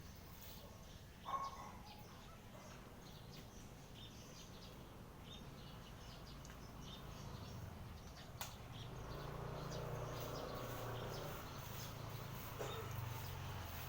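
Small birds chirping in short, scattered calls over a steady low background hum that grows louder in the second half. One brief louder sound stands out about a second in.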